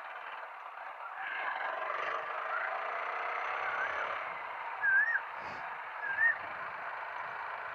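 Two short warbling bird calls, about five and six seconds in, over a steady hiss.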